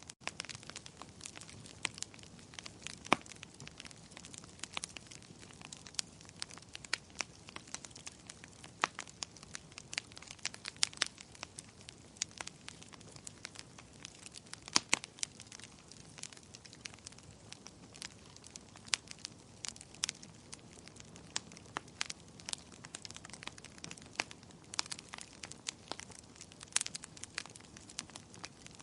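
Fireplace fire crackling: irregular sharp snaps and pops over a soft low hiss, with a few louder snaps here and there.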